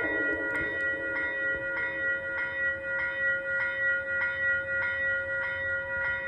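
Railroad crossing warning bell ringing steadily, about one and a half strikes a second.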